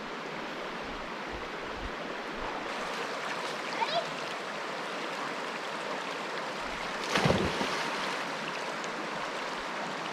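River water rushing steadily over rocks, with a short thump about seven seconds in.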